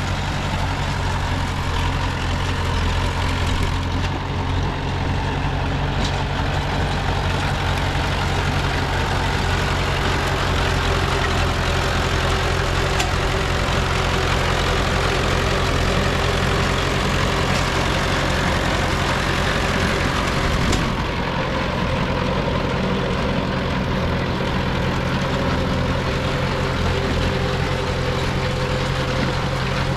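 Diesel engine of a Komatsu D20P crawler bulldozer running at a steady speed, a constant low drone under dense mechanical noise.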